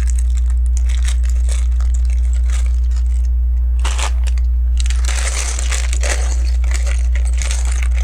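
Hands rummaging through a plastic bag of Lego pieces: the bag crinkles and the small plastic bricks click against each other, busiest in the second half. A steady low hum runs underneath.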